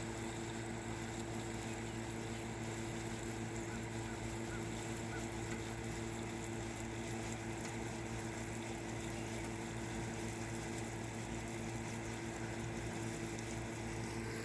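Air conditioner running with a steady hum of several low tones, unchanging throughout.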